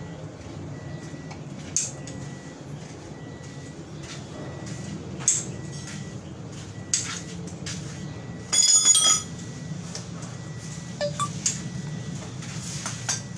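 Metal objects clinking and tapping, with a brief ringing metallic clatter about nine seconds in, over a steady low hum.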